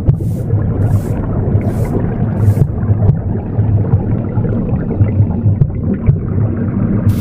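Womb sound: a low, muffled whooshing rumble that pulses steadily like a heartbeat, mixed with broom sweeping strokes. Four swishes of the broom come about three-quarters of a second apart in the first few seconds, then they stop until one more starts right at the end.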